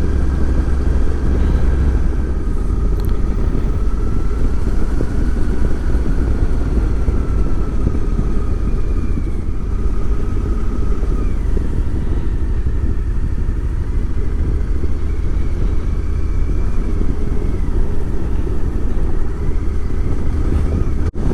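Motorcycle engine running while riding, a steady low rumble with a faint whine that drifts slowly up and down in pitch as the throttle changes.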